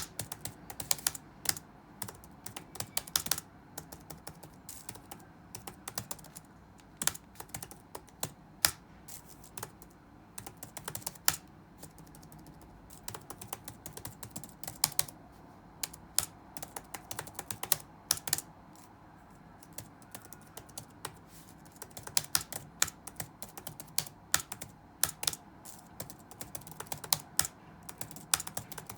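Computer keyboard being typed on in quick irregular runs of key clicks, with a pause of about two seconds about two-thirds of the way in, over a faint steady room ambience.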